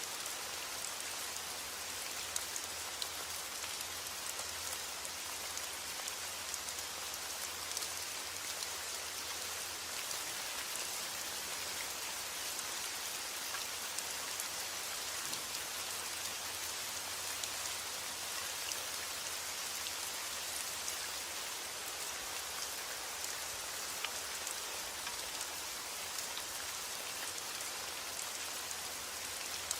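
Heavy rain falling steadily: a dense, even hiss with sharper drop ticks scattered through it.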